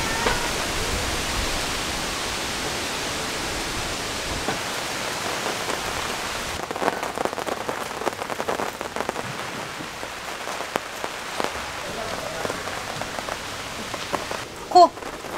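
Heavy rain with gusting wind: a steady rushing hiss that slowly fades, then from about seven seconds in rain falling on wet stepping stones and gravel, many separate drops ticking. A short, loud cry near the end.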